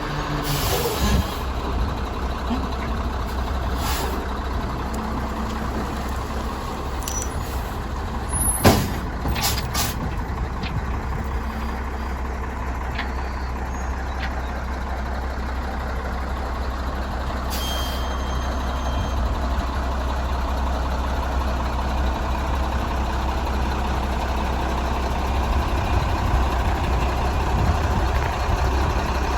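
An M930A2 military dump truck's diesel engine runs with a steady low rumble. A single short, loud burst comes about nine seconds in, and a few fainter clicks and knocks are scattered through.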